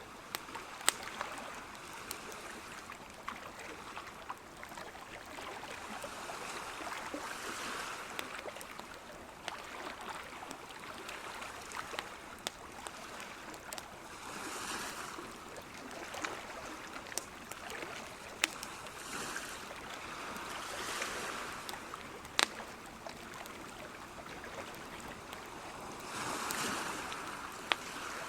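Sea waves washing in gently, swelling about every six seconds, with a few sharp clicks.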